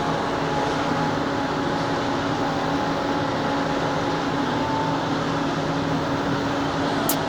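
Steady mechanical hum of large machinery, with a constant low drone and a fainter higher tone running through an even noise.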